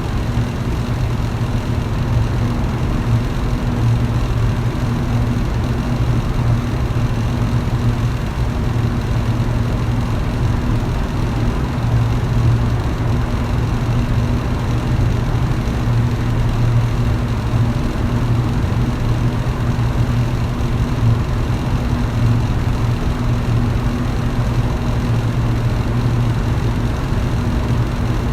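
Electric fan running steadily: a low motor hum under a constant rush of moving air.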